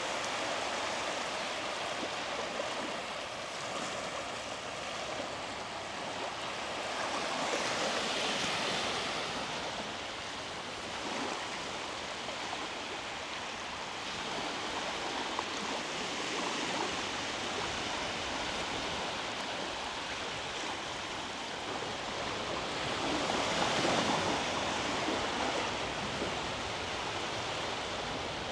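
Small sea waves breaking and washing up a beach in a continuous hiss, with two louder surges about eight seconds in and again near twenty-four seconds.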